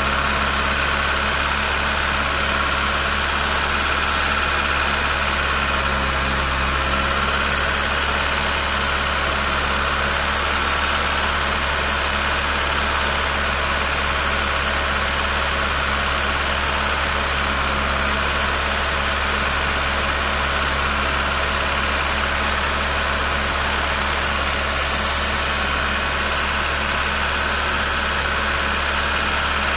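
Kia Cerato four-cylinder petrol engine idling steadily while its fuel injectors are being flushed.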